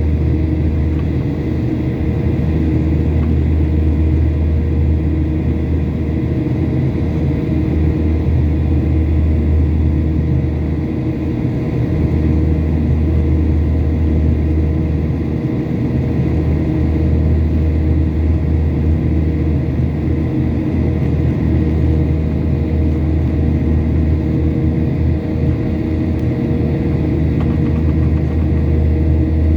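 Boeing 737-800's CFM56-7B jet engines running steadily: a continuous low rumble with a steady hum over it.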